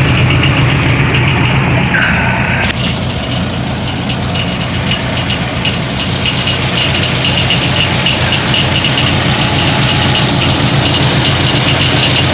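1962 Ford 801 Select-O-Speed tractor's four-cylinder gasoline engine running just after a key start, easing down slightly about three seconds in and then idling steadily.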